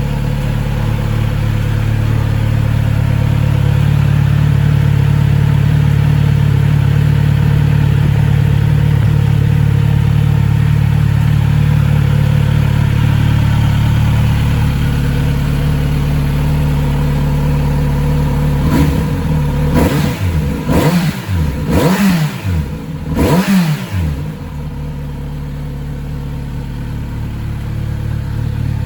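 Kawasaki Z900RS inline-four engine idling steadily while warming up after months in storage, then given about five quick throttle blips that rise and fall in pitch, settling back to idle.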